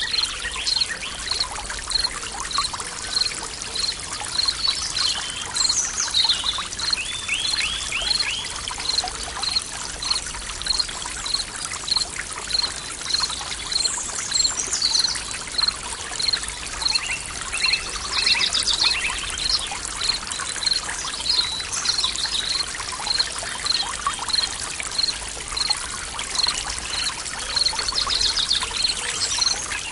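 Forest stream soundscape: water trickling and pouring steadily, with birds calling and trilling now and then over a high chirp that repeats evenly about one and a half times a second.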